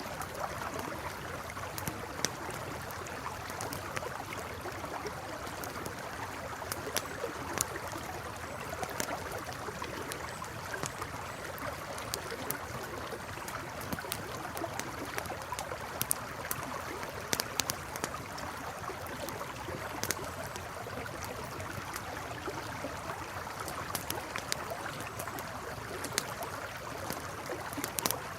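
River water flowing steadily, with a crackling campfire giving frequent sharp pops and snaps over it.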